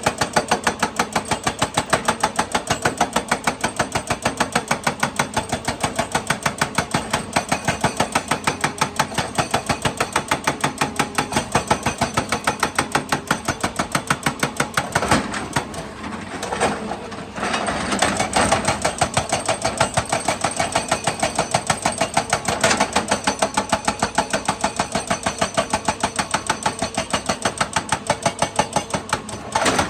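Excavator's diesel engine running with a steady, rapid, even mechanical clatter, which dips and turns rougher for a few seconds about halfway through.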